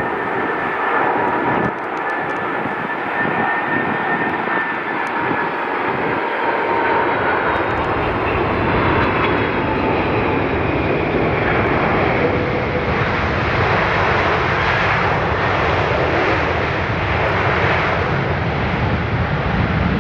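Boeing 747-400F freighter's four jet engines as it comes in to land: a steady roar with a high whine that slowly falls in pitch. The roar grows deeper and fuller from about halfway through.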